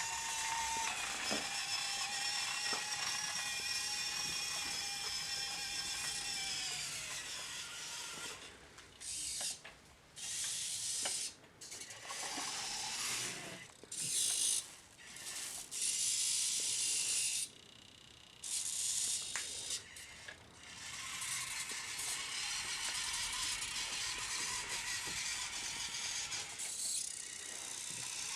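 Radio-controlled Siku Control Mercedes-Benz model truck's electric drive motor and gears whining steadily, then winding down in pitch after about six seconds. The motor then runs in short stop-start bursts before running steadily again in the last several seconds.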